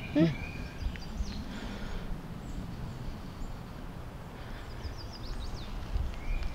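Woodland background with a low rumble and a few faint chirping calls: an arched chirp near the start and again near the end, and a quick run of falling chirps about five seconds in.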